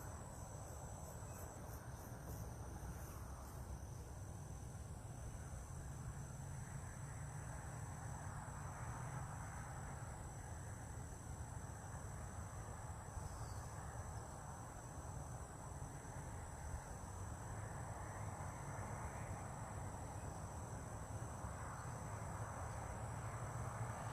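Insects singing: a faint, steady, high-pitched trill that goes on without a break, over a low outdoor rumble.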